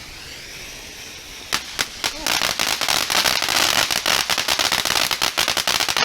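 Ground firework going off: a few sharp pops about a second and a half in, then a dense, rapid run of crackling pops.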